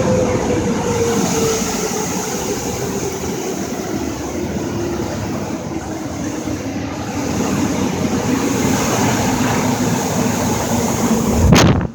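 Car wash blow dryers: a loud, steady rush of air under a hum that slowly falls in pitch as the fans wind down. A sharp click comes near the end.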